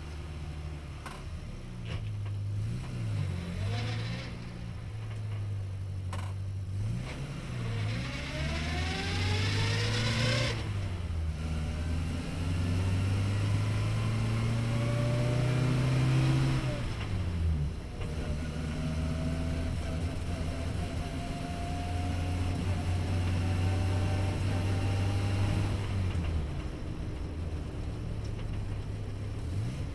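Car engine heard from inside the cabin, pulling away and accelerating up through the gears. The revs climb twice, with a gear change about ten seconds in and a drop at about seventeen seconds, then the engine runs steadily at a cruise.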